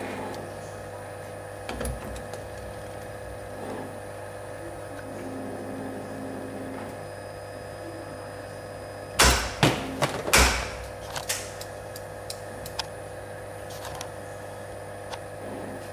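CNC spring-coiling machine running with a steady hum, with a burst of loud clacks a little past halfway, then a few lighter ticks.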